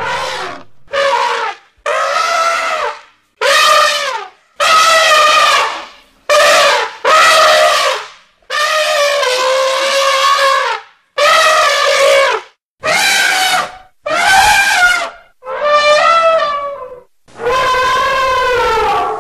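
Mammoth trumpeting sound effect: about a dozen loud trumpet calls in a row, each under a second to about two seconds long, with short gaps between, the pitch bending within each call.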